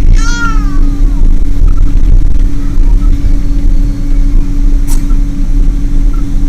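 Boeing 777 jet noise: a loud, steady low rumble with a constant hum. A short falling tone is heard right at the start, and a single click about five seconds in.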